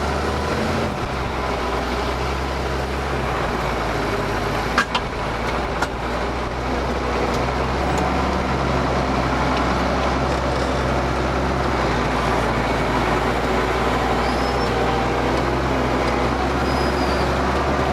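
Ford TW tractor's diesel engine running steadily while ploughing, with a single sharp click about five seconds in.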